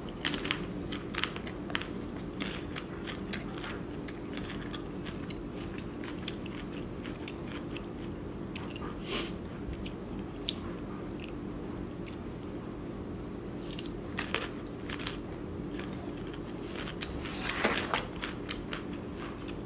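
Close-up chewing and crunching of crisp corn tostadas with ceviche: a quick run of crunches at first, then slower, sparser bites, with a louder crackle near the end. A faint steady hum sits underneath.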